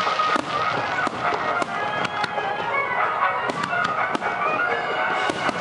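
Fireworks display: sharp bangs and crackles of shells bursting at irregular intervals, several within a few seconds, over music with held notes.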